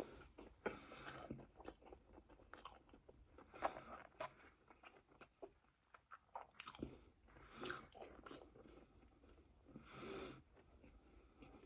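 Person biting and chewing pizza close to the microphone, heard faintly as irregular short crunching and wet mouth sounds with small clicks every second or so.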